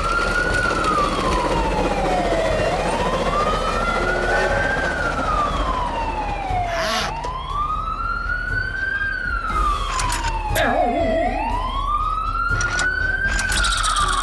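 A siren wailing in slow cycles. Each cycle rises quickly and falls slowly, repeating about every four seconds, with a few brief knocks near the middle.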